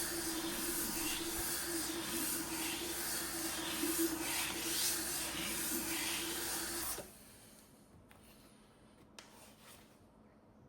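Aluminium espresso-machine boiler rubbed back and forth on 220-grit sandpaper laid on a flat countertop, a rasping in repeated strokes that stops suddenly about seven seconds in.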